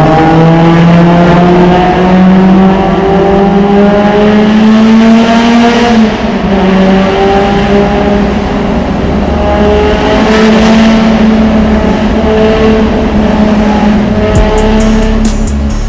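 Honda S2000's Toda-built 2.35-litre F20C inline-four revving high under hard acceleration, its pitch climbing through a gear. The pitch drops at a shift about six seconds in, then climbs again.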